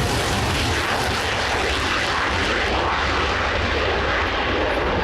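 Mikoyan MiG-29A fighter's twin Klimov RD-33 turbofan jet engines on its take-off roll, a loud steady jet noise whose high hiss thins toward the end.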